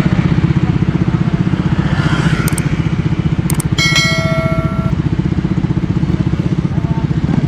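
Honda CRF motorcycle engine running at a steady idle with an even, fast pulsing exhaust beat. About halfway through a brief high tone sounds for about a second over it.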